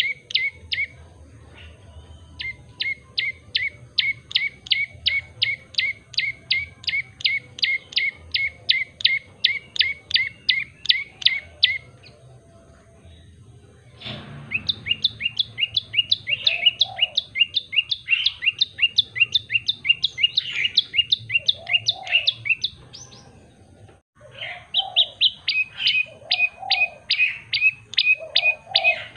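Tailorbird singing long fast series of sharp chip notes, about three a second, each dropping quickly in pitch. It stops about twelve seconds in, then resumes with a slightly different note, and fainter low calls sound underneath in the second half.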